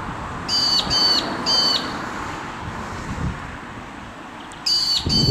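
Bird calls: three short, high calls about half a second apart, then two more near the end. These are typical of the small birds nearby raising alarm at a bird of prey on a fresh kill.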